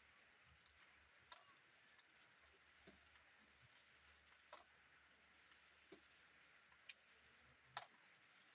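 Faint rain: a soft steady hiss with drops ticking irregularly, a few louder ones near the end.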